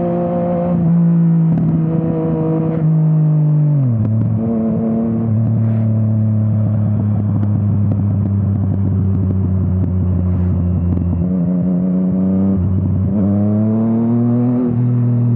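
Yamaha MT-09's three-cylinder engine through an Akrapovič exhaust, heard from the rider's seat: the engine note holds steady, drops sharply about four seconds in as the throttle is rolled off, runs at an even pitch, then climbs again under acceleration near the end with a brief break in the note.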